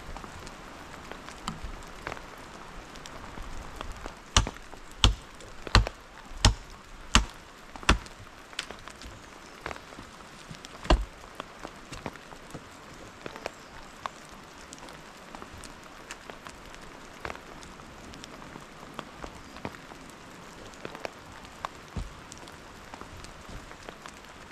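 Rain falls steadily throughout. A few seconds in come six sharp chopping strikes about two-thirds of a second apart, then single strikes later on.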